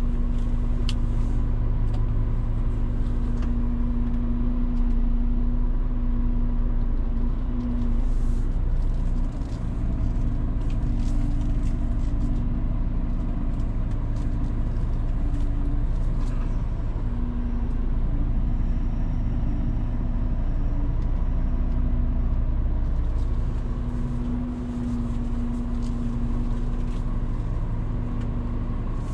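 Scania truck driving along: a steady low engine drone and road rumble, with a pitched hum that fades in and out.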